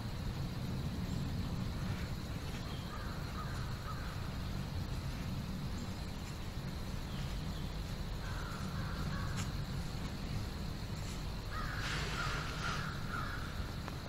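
A bird calling in three short, harsh bouts, about 3, 8 and 12 seconds in, the last the longest, over a steady low rumble.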